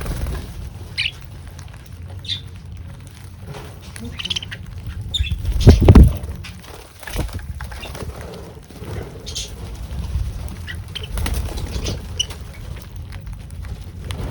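Small birds giving short high chirps now and then, with wing flutters, the loudest a low whoosh about six seconds in, over a steady low rumble.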